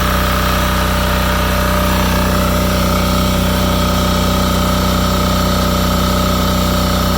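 Yanmar L100V single-cylinder air-cooled diesel running steadily, driving a generator head.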